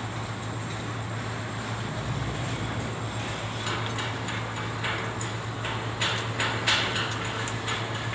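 Stick (arc) welding on galvanized steel pipe: the arc crackles and pops irregularly, more densely from about halfway in, over a steady low hum.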